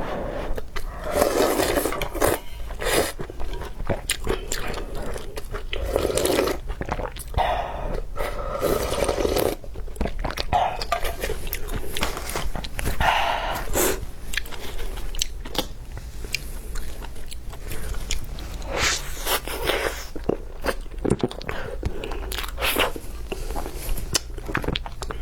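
A person chewing and biting food close to the microphone, with crunching and many short wet clicks coming irregularly.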